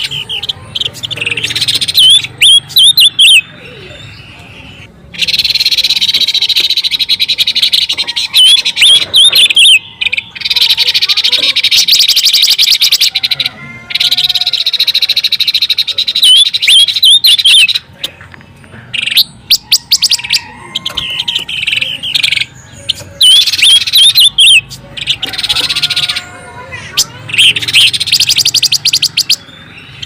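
Silver-eared mesia calling and singing. Loud, fast chattering trills alternate with short phrases of rising whistled notes, repeated in bouts with brief pauses.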